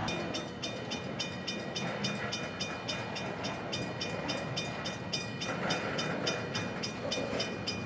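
Railroad grade-crossing bell ringing steadily, about three to four strikes a second, with the faint rumble of the stopped train underneath.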